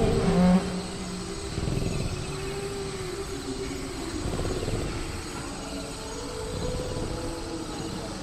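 Sound-effect velociraptor growling and calling in low, drawn-out tones, loudest in the first half-second, over a steady chirr of crickets.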